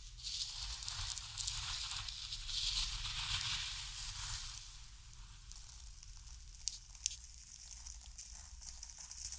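Ajwain seeds shifting and rustling in a bowl: a dense, dry rustle that eases off about halfway through, with two small sharp clicks later on.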